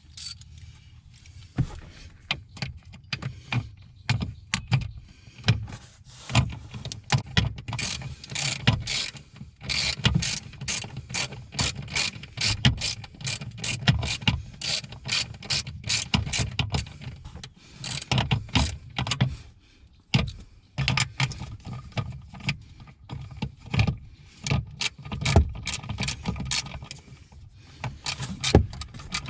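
Hand ratchet wrench clicking in quick runs of strokes with short pauses, tightening the new accelerator pedal's mounting fasteners.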